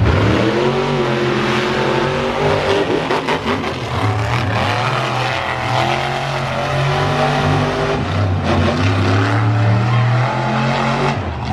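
Monster truck engines revving hard at full throttle, their pitch rising and falling repeatedly as the trucks accelerate and shift through a race.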